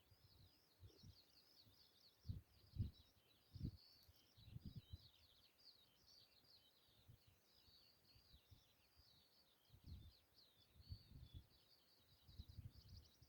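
Faint, continuous chorus of songbirds singing, dense high twittering and trills without a break. Low rumbling thumps come in clusters about two to five seconds in and again near the end, and are the loudest moments.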